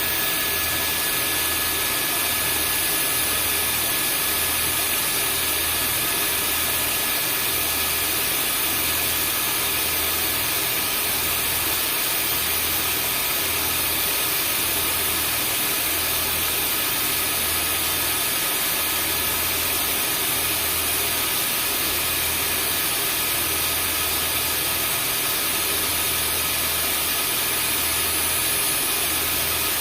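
Vacuum cleaner running steadily: an even rushing hiss with a few steady whining tones from the motor, over a low hum that swells and fades about every second and a bit.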